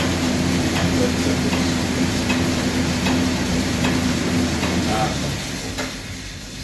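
Fan-resisted exercise bike (air bike) pedalled hard, its fan whooshing with a steady low hum. It winds down and fades about five seconds in as the 10-calorie sprint ends.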